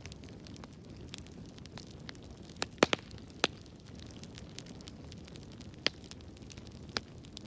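Fire crackling in a fireplace: a steady low rush of burning with constant small crackles and a few sharp, loud pops, a quick cluster of them about three seconds in and single ones near six and seven seconds.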